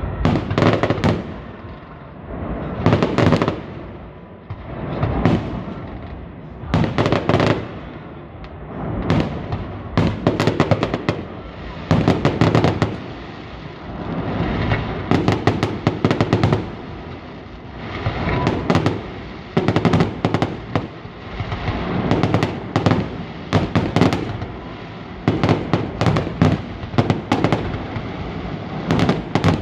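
Fireworks display going off continuously: clusters of sharp bangs and crackles every second or two, with a low rumble between the volleys.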